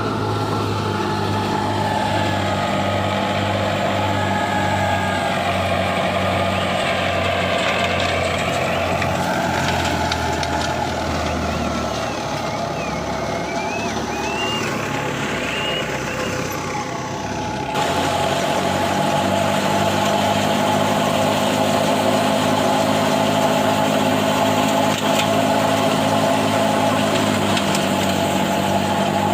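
Heavy farm-vehicle diesel engine running. In the middle stretch its pitch rises and falls as the revs change. About 18 seconds in the sound changes abruptly, and after that the engine runs steadily again.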